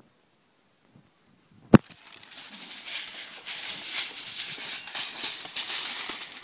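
A sharp knock, then aluminum foil crinkling and rustling continuously as it is handled and pressed over a cardboard box.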